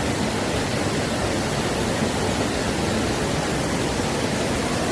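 Mountain stream water rushing and splashing over rocks as a steady, even wash of noise.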